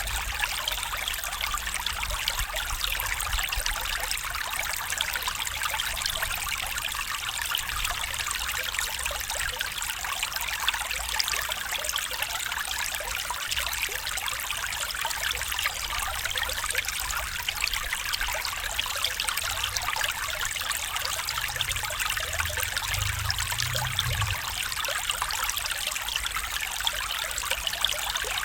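Stream water trickling and babbling over stones, a steady rushing hiss with no pauses. A brief low rumble comes in about three-quarters of the way through.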